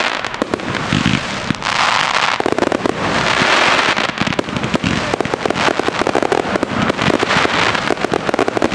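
Fireworks display: a dense run of sharp bangs mixed with waves of crackling.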